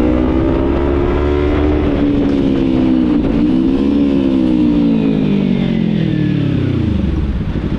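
Kawasaki Z300 parallel-twin engine running under way. The revs climb slowly, dip briefly about three seconds in, climb again, then fall steadily as the bike slows near the end.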